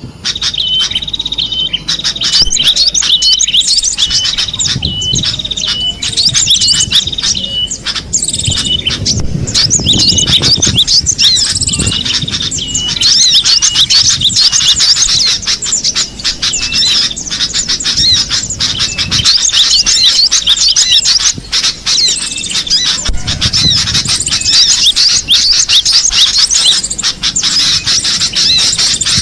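Cinereous tit (gelatik batu) calling and singing: rapid, almost continuous high chirps and repeated short whistled notes, with brief spells of low rumbling underneath.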